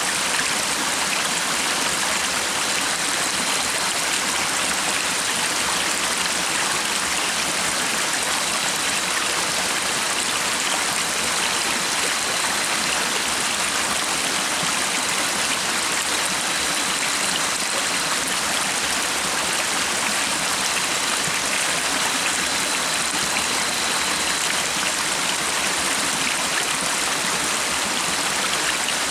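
A stream of water rushing and splashing steadily, an even, unbroken sound, with a faint thin high whistle coming and going every few seconds.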